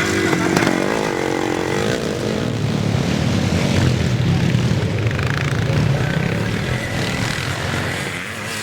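Classic motocross motorcycle engines running. One engine note falls in pitch over the first couple of seconds, as a bike backs off or goes past, and then gives way to a steady low rumble of engines.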